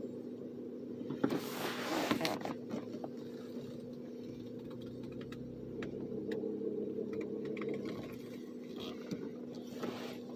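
Steady car engine hum heard from inside the cabin, with a burst of rustling and clicks about a second in and another brief one near the end.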